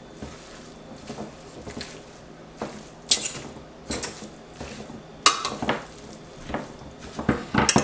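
A metal utensil stirring shredded, seasoned chicken in a cooking pot, scraping and clinking against the pot several times, about a second or more apart.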